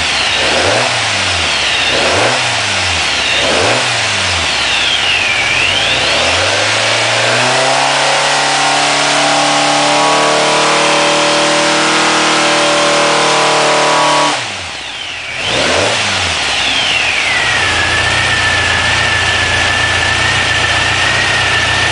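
A 2275cc 168 hp street engine being revved: four quick throttle blips, then a climb to high revs held for several seconds, the throttle snapped shut, one more blip, and the engine settles to idle near the end with a steady high whine over it.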